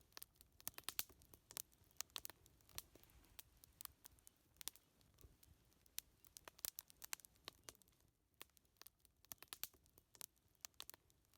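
Wood fire crackling quietly, with many irregular sharp pops and snaps.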